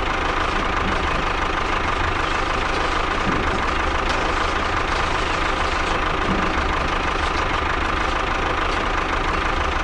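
Engine idling steadily, a constant low rumble with a thin steady whine above it.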